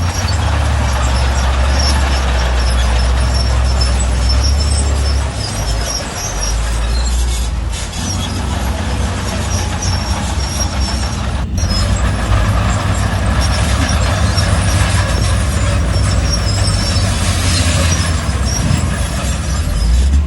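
Shantui bulldozer's diesel engine working under load: a deep, steady drone that shifts in pitch several times, over a constant rough clattering, grinding noise.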